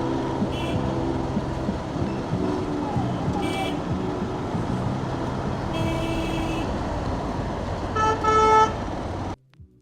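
Busy road traffic noise with vehicle horns honking four times: short toots early on and in the middle, a longer one about six seconds in, and the loudest near the end. The sound cuts off suddenly just before the end.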